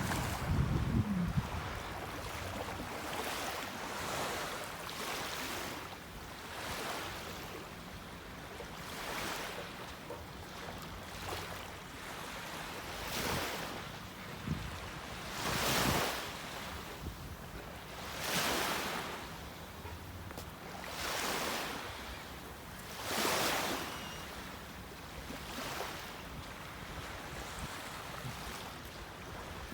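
Small waves breaking and washing up on a beach, a swell of surf every two to three seconds. A short rumble of wind on the microphone comes right at the start.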